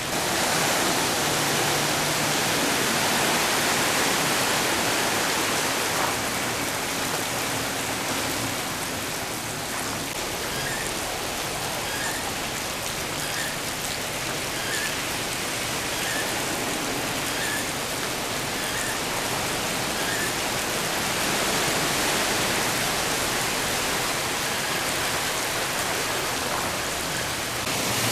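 Heavy rain falling steadily, a dense even hiss. Faint short high chirps repeat about every second and a half through the middle.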